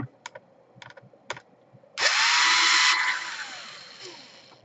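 Small electric screwdriver spinning up, running about a second and winding down as it backs out a small screw from the laptop's base, after a few light clicks of the bit being set on the screw.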